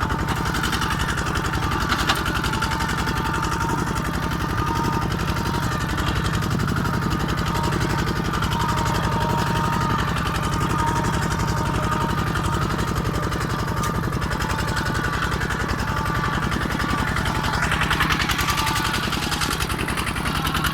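Kubota tractor engine running steadily with a fast, even beat.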